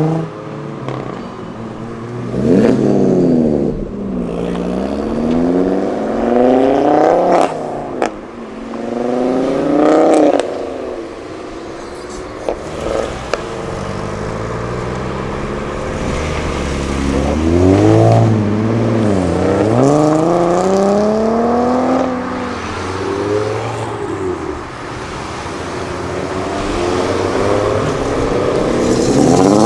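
Cars accelerating hard one after another, engines revving up through the gears, with the pitch dropping at each shift and climbing again. A few short sharp cracks break in about a third of the way through.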